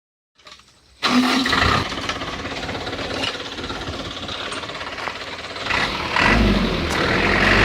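Truck engine running, cutting in suddenly about a second in and growing louder and deeper about six seconds in.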